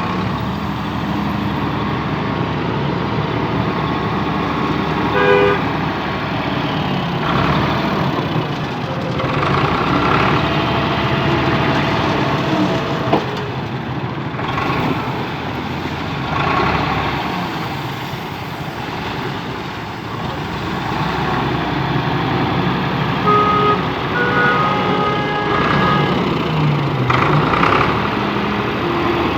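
An old tractor's engine running steadily under load, with a few short horn-like toots over it, about five seconds in and again near the end.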